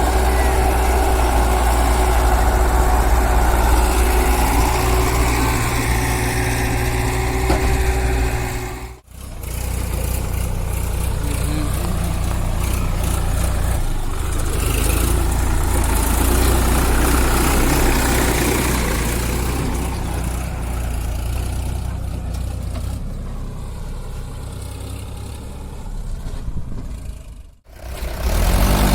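Heavy diesel machinery engines running steadily at work. The sound cuts out abruptly twice, about nine seconds in and again near the end.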